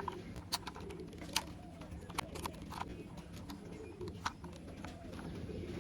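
Light, scattered clicks and taps of small plastic toy parts being handled and fitted together, a toy motorbike's wheels being attached.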